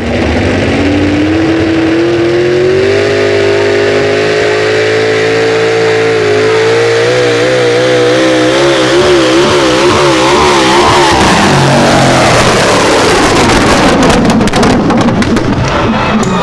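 Powerful tractor engine running hard at high revs. Its pitch climbs steadily, then wavers up and down for several seconds before breaking up into a noisier roar.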